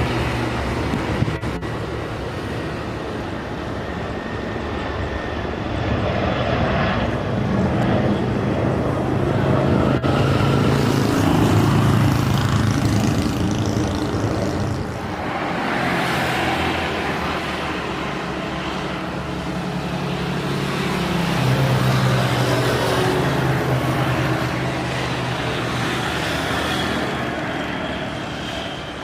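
Steady engine noise from passing vehicles and aircraft, swelling and fading several times.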